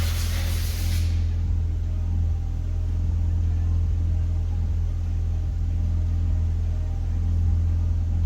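Steady low mechanical hum from a 2003 Audi A4, with a hiss that dies away about a second in.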